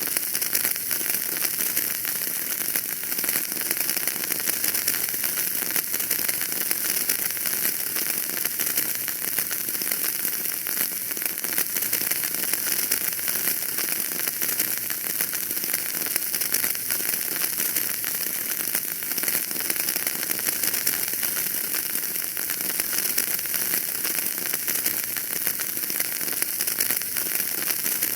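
Wood fire crackling in a fireplace: a dense run of small pops and snaps over a steady hiss.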